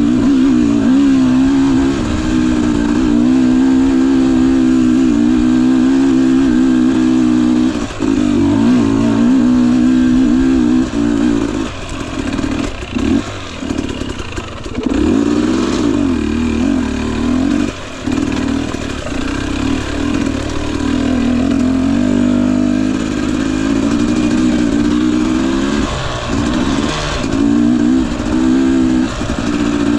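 Husqvarna TE250i's single-cylinder two-stroke engine running under load on a dirt bike, its pitch wavering up and down with the throttle. The throttle is briefly chopped several times.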